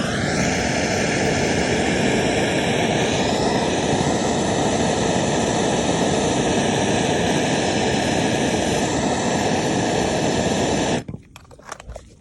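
Handheld gas torch flame running with a steady, loud rushing hiss while it heats a thermopile generator, then cut off suddenly near the end.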